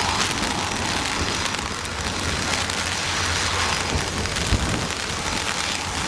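Heavy typhoon rain hissing steadily, with strong gusting wind rumbling on the microphone and one brief thump about two-thirds of the way through.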